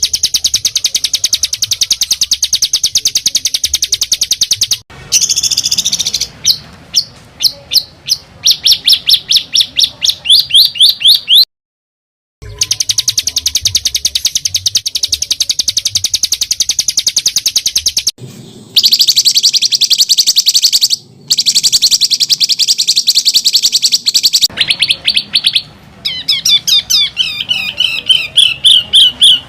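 Songbird giving harsh, tightly packed rapid trills and fast runs of repeated whistled notes, spliced together with abrupt cuts: a masteran recording of rough 'roll' phrases used to tutor competition songbirds. One run speeds up and grows louder, and near the end the notes slide down in pitch.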